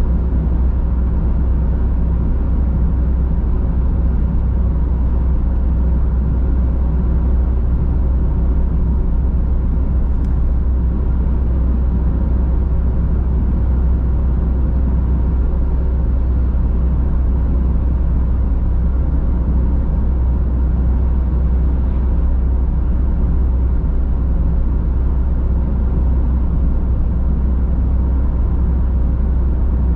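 A car driving at a steady speed: continuous low rumble of tyres on the road and engine, with no change.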